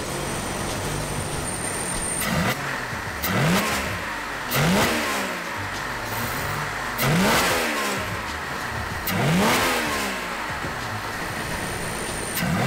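Jaguar E-Type's XK straight-six, converted to electronic fuel injection with individual throttle bodies, idling and then revved by hand at the throttle linkage in about six short blips, each rising and falling straight back to idle, as part of tuning the new injection.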